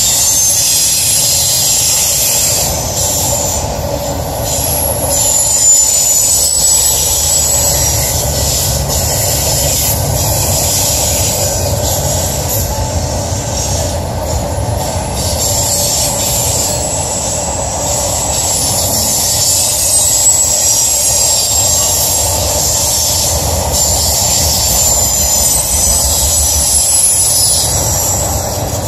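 Freight train's double-stack and trailer-on-flatcar intermodal cars rolling past at speed: a steady rumble of steel wheels on rail with a high-pitched wheel squeal over it.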